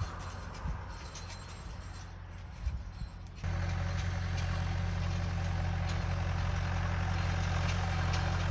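Tractor engine running with a steady low hum, with a couple of short knocks in the first three seconds; a little over three seconds in the engine sound suddenly becomes much louder and stays steady.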